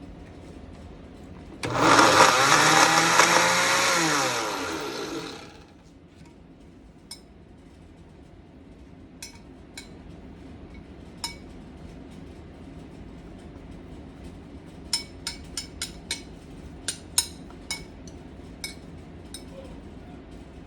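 An electric blender runs in one short burst of about four seconds, its motor pitch dropping as it spins down and stops. Afterwards come a scattering of light clinks and knocks from kitchenware.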